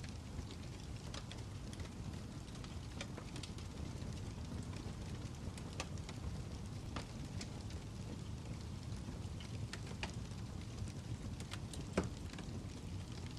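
Crackling fire: irregular snaps and pops over a steady low rumble, with one louder pop about 12 seconds in.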